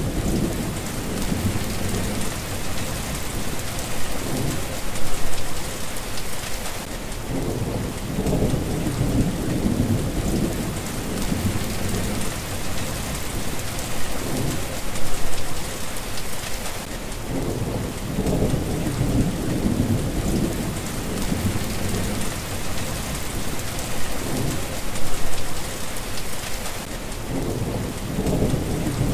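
Steady rain with low thunder rumbling underneath, swelling and fading about every ten seconds.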